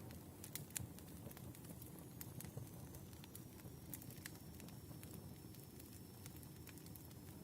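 Wood fire burning: scattered, irregular sharp crackles and pops over a steady low rumble.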